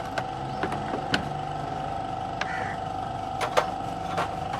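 A steady mechanical hum with about six sharp, irregularly spaced clicks and knocks, two of them close together past the middle.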